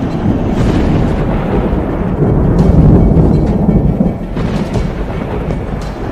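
Deep rumbling thunder effect over dramatic film music, swelling loudest about halfway through, with a few sharp crackles.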